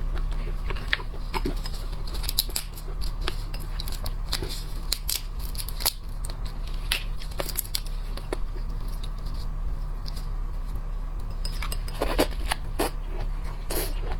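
Scattered crisp clicks and crackles of shrimp shells being handled and peeled, with a denser run of cracks near the end, over a steady low hum.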